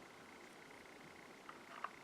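Near silence: room tone, with two faint short clicks near the end.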